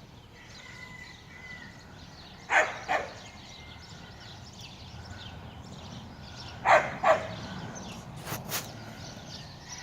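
Chihuahua barking in two pairs of quick, high yaps, a few seconds apart.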